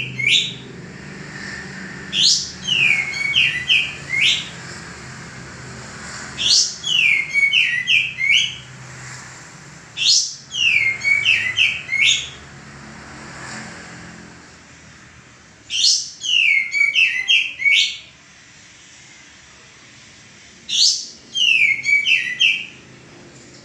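Male kapas tembak, a bulbul, singing at full volume in song: five loud phrases a few seconds apart, each opening with a high note that slides down into a quick run of whistled notes.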